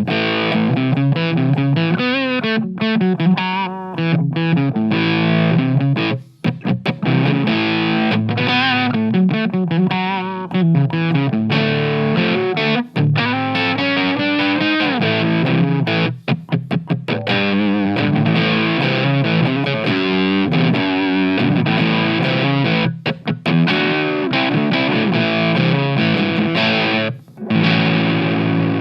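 Electric guitar on its bridge pickup played through an engaged MXR MC402 Boost/Overdrive pedal: a distorted riff with a nice bottom end, broken by a few brief stops.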